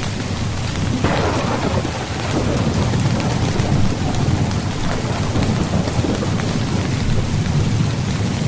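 Steady rain on a tent, with scattered single drops ticking over a deep rumble of thunder. About a second in, a sudden louder thunder burst swells and then fades away.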